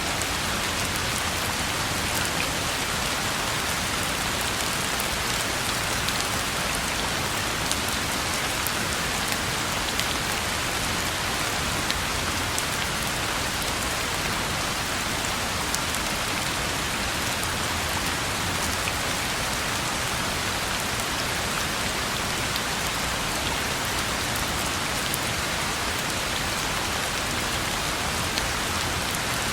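Steady rain falling on a road: an even hiss with scattered sharp ticks of individual drops.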